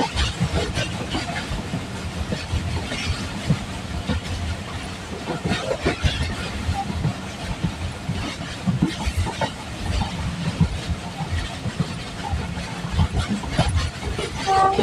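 Train running on the track: a steady rumble with irregular clattering knocks from the wheels.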